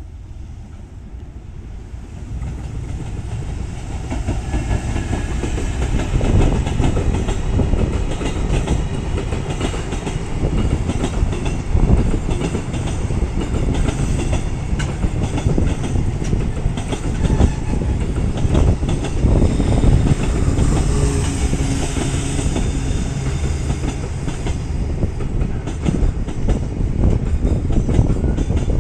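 Container freight train hauled by an EF510 electric locomotive passing close by, growing louder over the first few seconds as it approaches, then a steady rumble and clatter of wagon wheels on the rails as the container wagons roll past.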